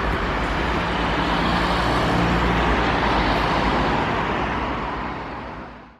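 Steady road-traffic noise that fades out near the end.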